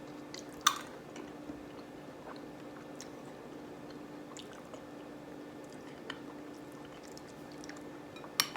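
A spoon clinking against a bowl of oatmeal twice, once about a second in and once near the end, each with a short ring, with a few faint mouth and spoon ticks between while she eats; a steady low hum runs underneath.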